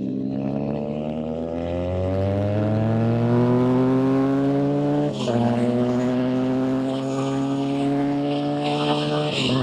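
Motorcycle engine accelerating, its pitch climbing steadily. It shifts up a gear about five seconds in and again near the end, with wind hiss rising as speed builds.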